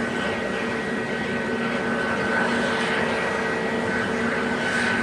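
Airbus A320neo's jet engines running steadily at idle: a constant hum with a high, steady whine that does not rise or fall.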